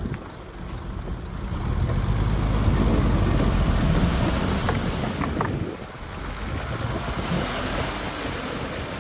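Heavy earthmoving machine's diesel engine running under work, building to its loudest between about two and five seconds in, then dropping off sharply near six seconds and running on lower.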